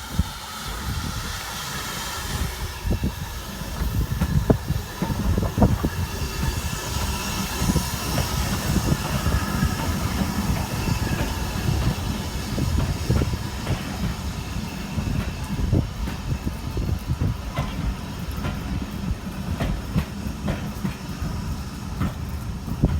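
A heritage railway train rolling in, its wheels rumbling and clicking over the rail joints, with a faint squeal of wheel on rail.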